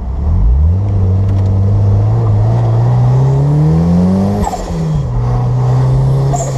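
1994 Toyota MR2 Turbo's turbocharged four-cylinder engine heard from inside the cabin while driving. The engine pitch dips at the start, climbs steadily for about four seconds as the car accelerates, drops sharply with a gear change, then holds steady.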